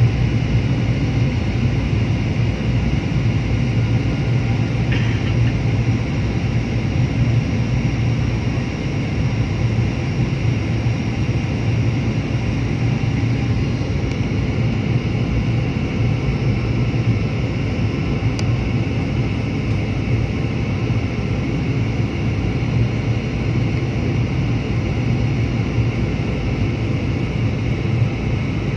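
Steady drone of an airliner's engines and airflow heard inside the passenger cabin, unchanging in pitch and level.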